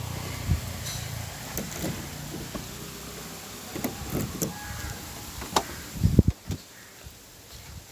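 Tata Nano's starter cranking its two-cylinder engine without it catching, a steady low drone for about the first second and a half. Then scattered knocks and clunks, the loudest a cluster of low thumps about six seconds in.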